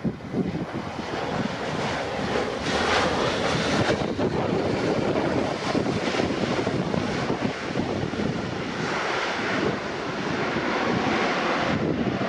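Airbus A320-232 airliner's IAE V2500 jet engines running as it lands, a loud, continuous rushing noise that swells and fades, with gusty wind buffeting the microphone.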